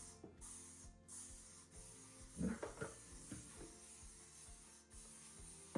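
Cleaning a kitchen sink: faint hissing and rubbing as cleaner goes on, with a few light knocks about two and a half seconds in.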